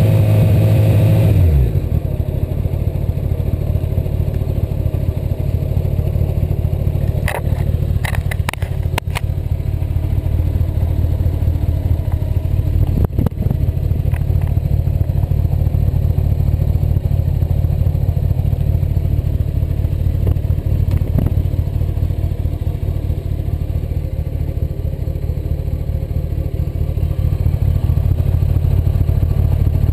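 Honda CBR1100XX's inline-four engine held at raised revs, dropping back to idle about a second and a half in, then idling steadily with a rapid low exhaust beat. A few sharp clicks come about a quarter of the way in and again near the middle.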